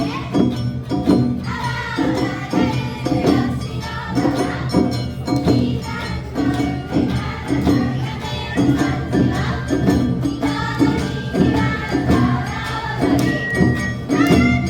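Live Awa Odori festival band music, played with a steady beat of about two strokes a second, ringing metallic percussion, and a melody line over it.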